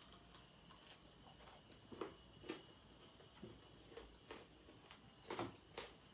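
Faint, scattered mouth clicks and smacks, about a dozen over several seconds, from someone eating chicken wings close to the microphone.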